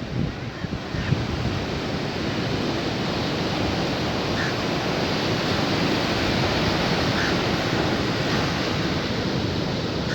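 Sea surf washing onto a beach: a steady, unbroken rush of breaking waves.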